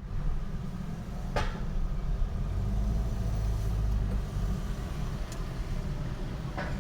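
A car engine idling with a steady low rumble, with a few brief sharp sounds over it: once early, once about two-thirds through and once near the end.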